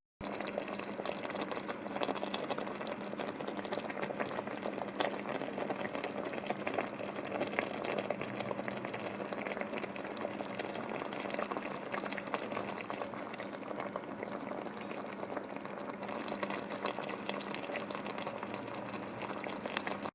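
Thick sauce with chicken thighs bubbling in a pan at a simmer, a steady crackle of small popping bubbles.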